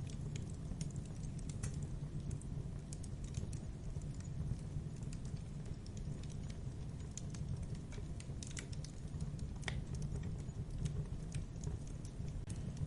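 Campfire burning: a steady low roar of flames with irregular crackles and sharp pops of burning wood.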